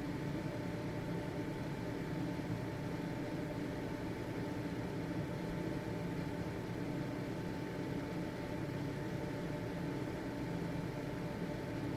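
Household exhaust ventilation fan running steadily: an even motor hum and airflow noise with a faint steady whine.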